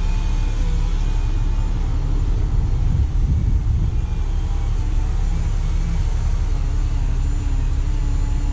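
Steady low rumble of a vehicle engine running, with faint wavering tones above it.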